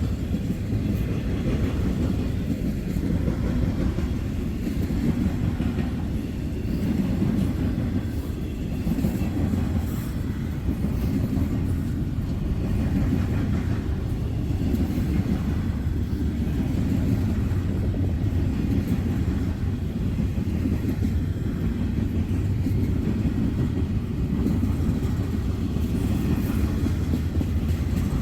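Freight train cars, tank cars among them, rolling past: a steady low rumble of steel wheels on rail with faint, scattered clicks.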